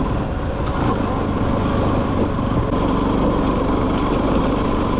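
Motorcycle running steadily while riding, its engine mixed with wind and road noise.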